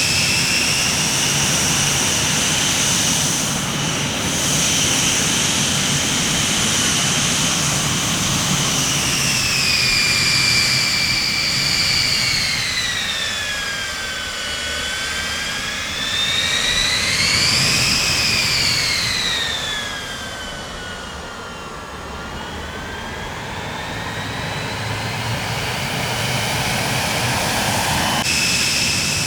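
Jet aircraft engines running, a high turbine whine over a rumble; the whine falls in pitch, rises again to a peak about 18 seconds in, falls once more, then jumps suddenly back to the higher pitch near the end.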